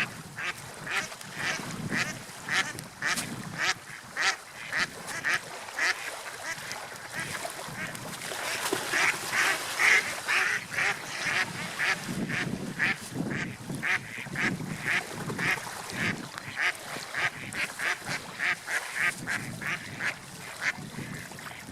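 Gulls calling in a fast series of short, repeated calls, a few each second, over a steady rush of wind and surf.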